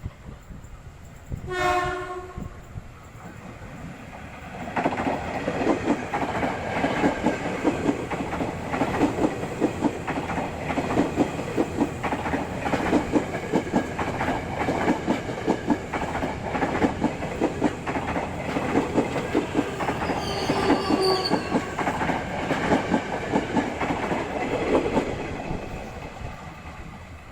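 A train horn sounds for about a second. Then, from about five seconds in, a train passes close by, its wheels clattering rapidly over the rail joints for some twenty seconds. The horn sounds again briefly about twenty seconds in, and the clatter fades near the end.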